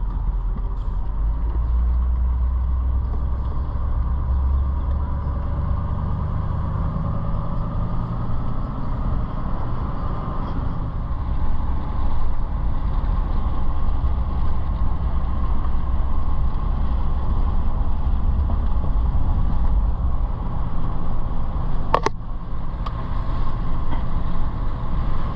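Car driving along a road, a steady low rumble of engine and tyres, with a single sharp click a few seconds before the end.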